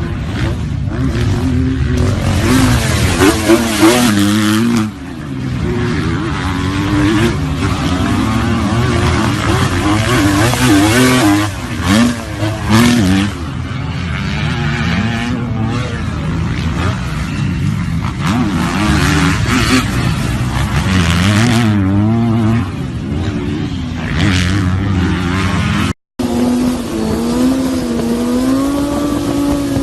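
Motorcycle engines revving, the pitch rising and falling repeatedly with throttle. The sound cuts off abruptly near the end, then gives way to a steadier engine note that slowly climbs.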